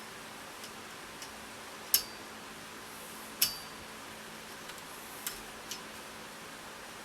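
Small metal clicks and taps of a tool working at a circlip inside a motorcycle fork tube, with two sharper clicks about two and three and a half seconds in that ring briefly.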